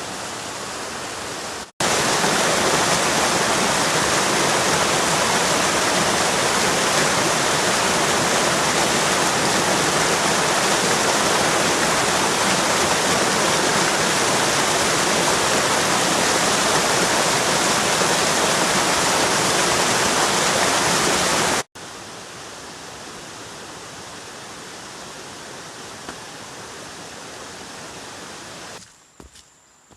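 Heavy rain with wind: a steady rushing hiss that cuts off abruptly and resumes twice, loudest in the middle stretch, then drops away to a faint background with a few small ticks near the end.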